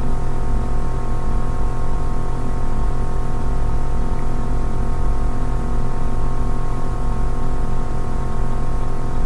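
Steady droning background music: many held tones sounding together, with no beat and no changes.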